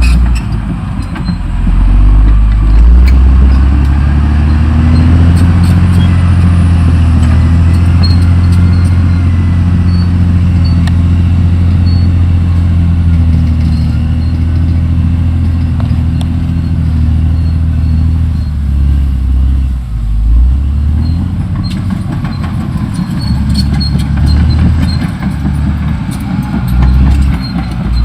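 Caterpillar D6R XL bulldozer's diesel engine running loud and steady with a deep drone, its pitch and level dipping and shifting about two-thirds of the way through.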